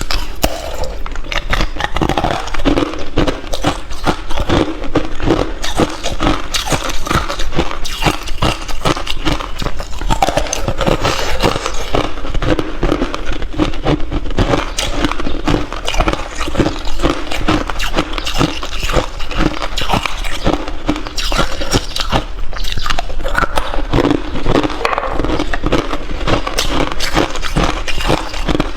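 A person chewing ice close to the microphone: continuous, rapid crunching and cracking with no pause.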